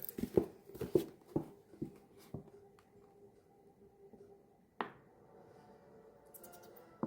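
A quick run of light knocks and clicks, then a faint steady background with a single sharper click about five seconds in.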